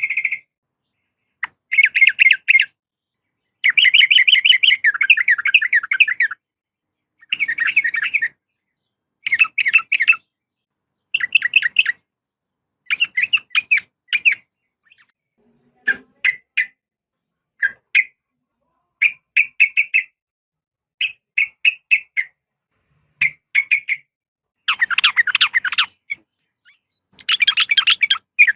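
Yellow-vented bulbul (trucukan) calling in a long run of short, bubbly chattering phrases, each about half a second to two seconds long, with brief pauses between them. The calls are presented as a female calling for a male.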